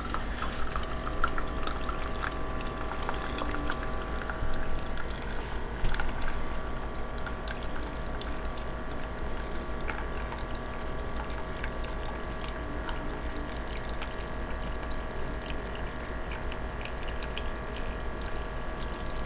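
Mr. Coffee Keurig single-cup brewer pumping and dispensing hot coffee into a cup: a steady hum from the pump with the hiss and trickle of liquid pouring and small crackles.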